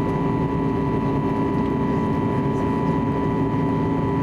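Steady cabin drone of an Airbus A320neo with its CFM LEAP-1A engines running, a constant rush with a few held humming tones.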